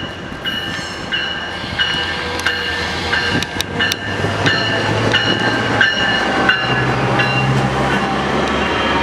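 Train rolling through, getting louder, its wheels squealing in high tones that come and go, with a few sharp clicks of wheels over rail joints about halfway through.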